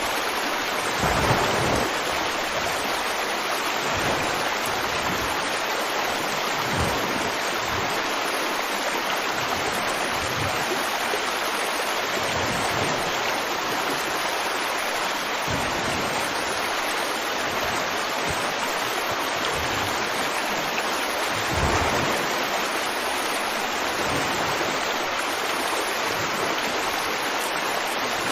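River water flowing steadily in an even rushing wash, with an occasional brief low gurgle or surge, once about a second in and again near 22 seconds.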